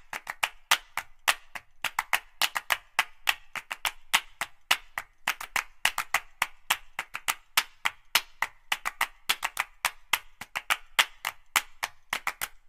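A rapid, uneven run of sharp clicks, several a second, starting suddenly.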